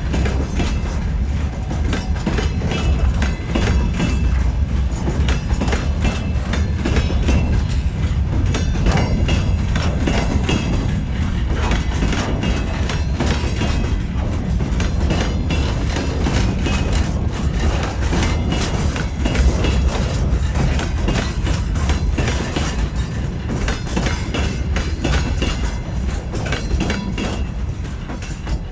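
Train passing close by, its wheels clattering rapidly over the rail joints with a steady low rumble. The clatter stops suddenly near the end as the last car goes by.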